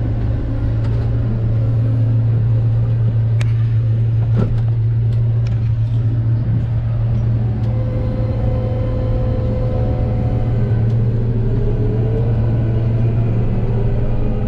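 A large diesel farm machine engine running steadily with a strong, even low hum. Two faint clicks come about three and a half and four and a half seconds in.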